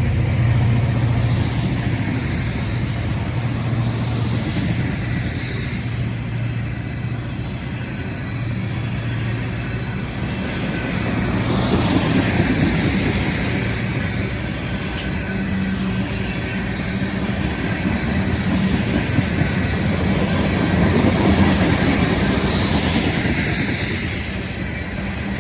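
CPKC diesel-hauled train passing: a steady low diesel hum under the rolling noise of the train on the rails. It grows louder about twelve seconds in and again a few seconds before the end.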